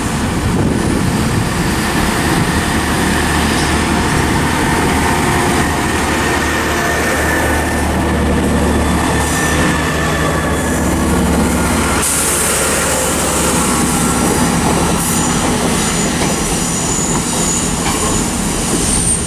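Passenger trains, a Class 800 and a Class 166 diesel multiple unit, pulling out of the station: a steady engine drone with wheels running over the rails. In the second half a high squeal from the wheels joins in.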